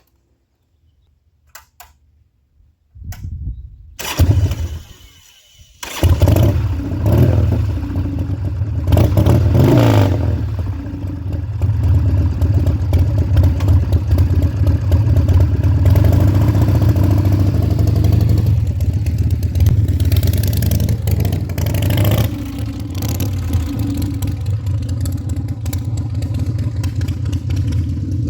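Harley-Davidson Sportster 1200's V-twin cranked over for a few seconds, catching about six seconds in, then running with a deep, steady rumble and a couple of brief revs.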